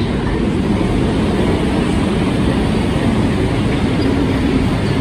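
White SNCB/NMBS double-deck passenger train rolling past along the platform, with a steady, loud, low noise of its wheels on the rails.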